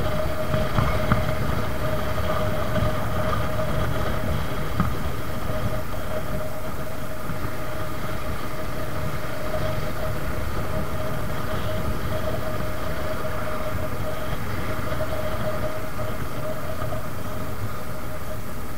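Suzuki Gixxer motorcycle engine running steadily at cruising speed, with a constant whine and wind rumbling on the microphone.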